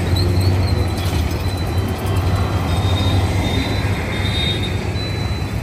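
Metro train running with a loud, steady low rumble, and a faint high wheel squeal that comes and goes.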